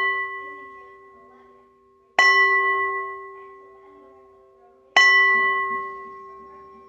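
Singing bowl struck repeatedly. It is ringing from a strike just before, then is struck again about two seconds in and about five seconds in. Each strike rings with several clear tones that die away over a couple of seconds over a steady low hum.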